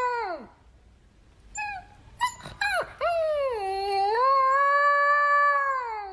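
A dog howling: a long howl falls away at the start, a couple of short yelps follow, then a second long howl rises and is held for about three seconds before dropping off near the end.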